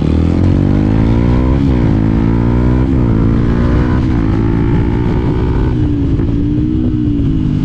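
Yamaha WR125X's single-cylinder four-stroke engine accelerating through the gears: the pitch climbs, drops sharply at two upshifts about one and a half and three seconds in, then holds fairly steady.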